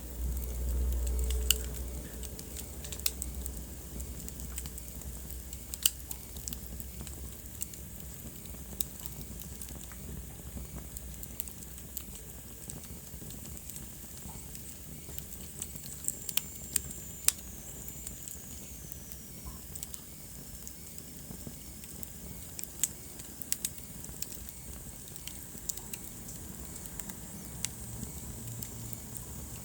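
Wood fire crackling, with irregular sharp pops over a steady low rumble of burning. A faint high whistle slides downward about midway through.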